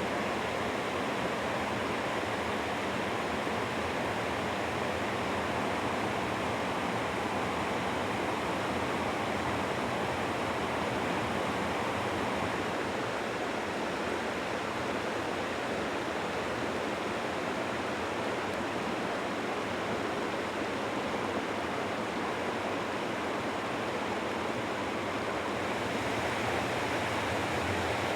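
Mountain river water rushing steadily over rocks, an even, unbroken roar of flowing water.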